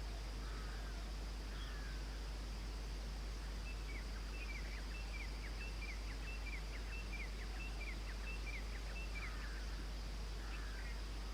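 A bird calling: a run of about ten short, sharp, down-slurred notes at about two a second, with a few softer chattering calls before and after, over a steady background hiss.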